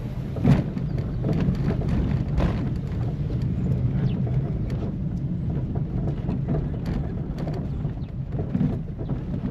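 Steady low rumble of a vehicle on the move, with scattered short knocks, the loudest about half a second in.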